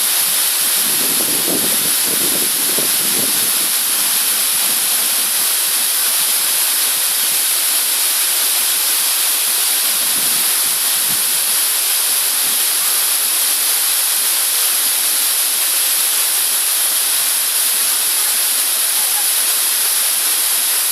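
Rushing water, a steady loud hiss that holds level throughout.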